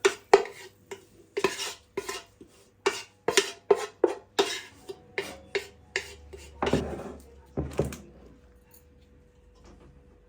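Dishes and cutlery clattering in a kitchen: a quick run of knocks and clinks, about two a second, that stops about eight seconds in.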